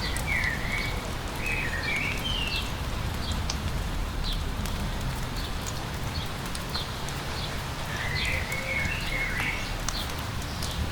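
A songbird singing two short phrases of gliding notes, one at the start and one about eight seconds in, with scattered short high chirps between. Underneath is steady light rain and a low, even rumble.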